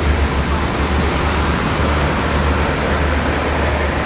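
State Railway of Thailand express train's passenger coaches rolling slowly past the platform as the train comes to a stop: a steady rumble of wheels on rails over a low, constant hum.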